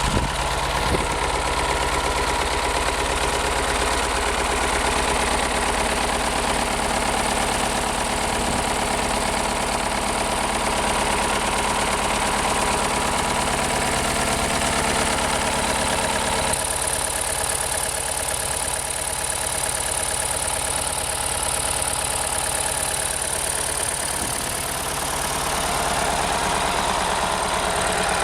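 Scania 142 V8 diesel in a Kharkov T-150K tractor idling steadily soon after a cold start. About two-thirds of the way through, its tone changes abruptly, with less low rumble and more high hiss.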